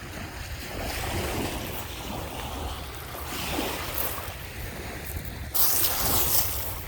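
Lake Michigan waves washing onto the shore in swells every second or two, with wind buffeting the microphone. A sudden loud hiss starts about five and a half seconds in and lasts about a second.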